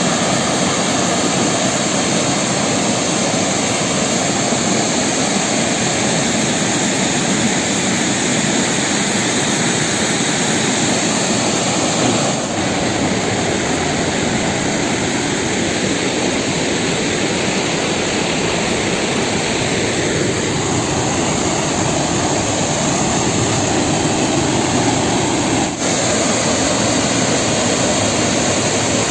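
Steady, dense rush of a large waterfall, falling water heard close up.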